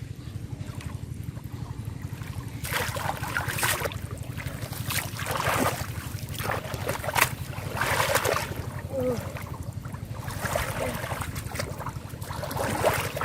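Water splashing and sloshing in irregular bursts, every second or two, as hands grope through shallow river water and mud, over a steady low rumble.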